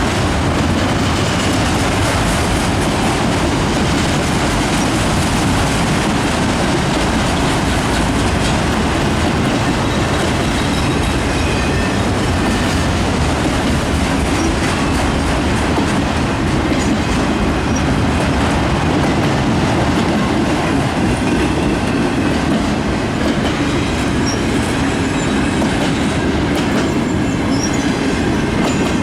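Freight train cars rolling past at close range, a steady loud rumble and rattle of steel wheels on the rails.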